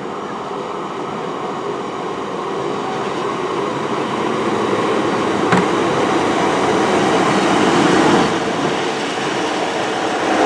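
Class 150 Sprinter diesel multiple unit at the platform, its engine and wheel noise steady and slowly growing louder, with one sharp click about five and a half seconds in.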